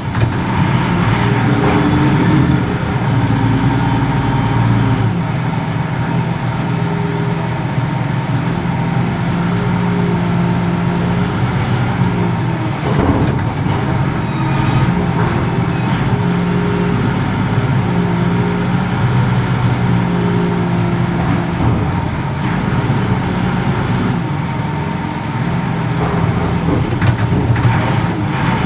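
Reach stacker's diesel engine running, its pitch stepping up and down every few seconds as it revs and settles while working containers.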